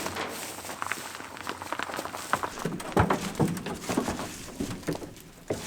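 Irregular footfalls and knocks with shuffling, the strongest knock about three seconds in.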